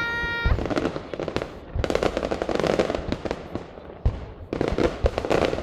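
Fireworks display: a whistling shell's steady whistle cuts off about half a second in, followed by dense crackling and a few deep booms.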